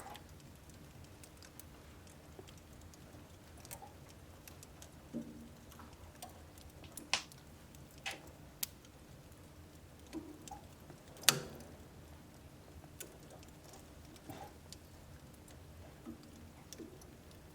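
Wood fire burning in a home wood stove, with irregular sharp crackles and pops over a soft low hiss; the loudest pop comes about two-thirds of the way through.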